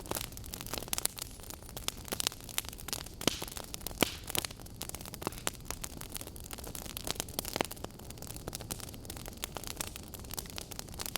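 Burning logs crackling: a dense run of small snaps and pops over a steady hiss of the flames, with a few sharper pops, the loudest about four seconds in.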